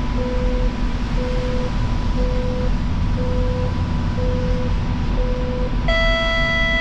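Light rail vehicle standing at a station with its doors open: a short beep repeats about once a second over the steady hum of the car's equipment and a faint continuous high tone. Near the end a ringing chime starts, the warning before the doors close.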